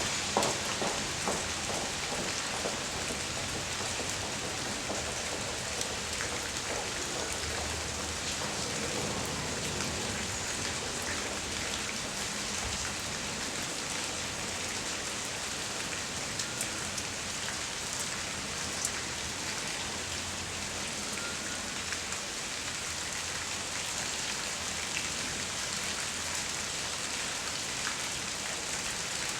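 Steady rain falling and pattering on the street, with scattered louder drips about the first second.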